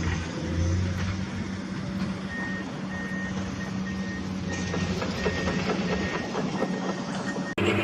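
Truck reversing alarm beeping steadily, about two beeps a second, over a low steady engine hum. Near the end the sound cuts abruptly to a louder engine.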